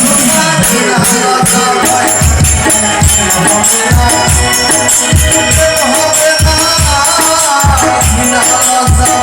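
Band accompaniment to a Bengali folk song: a steady drum beat of about two strokes a second under a melodic line, with a shaker rattling along.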